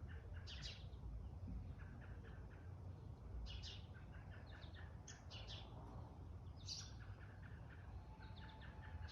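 Wild birds chirping faintly. Short groups of high chirps come every couple of seconds over a steady low background rumble.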